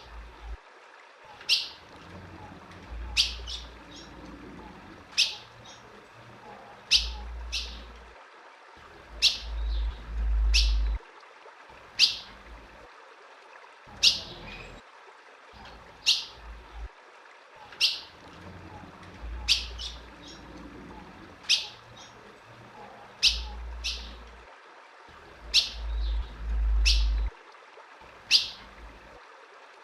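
Female ultramarine grosbeak (azulão) giving short, sharp, high chip calls, one every one to two seconds, played to excite a male. Several low rumbles swell up under the calls, the loudest about a third of the way in and again near the end.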